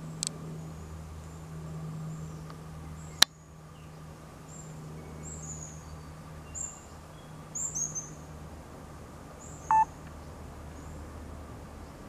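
Bird chirping in a series of short, high, downslurred notes, with a single sharp click about three seconds in and a brief lower pitched call near the end. A steady low hum runs underneath.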